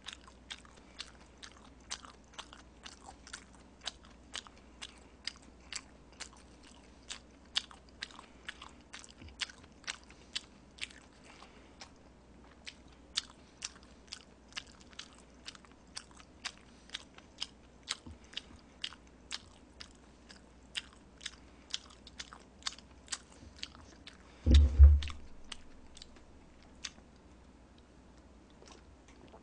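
Close-miked mouth sounds of someone chewing a big mouthful of Chapagetti black-bean instant noodles: wet smacking clicks at about three a second. About 24 seconds in, a single loud low thump breaks in, and the chewing clicks stop.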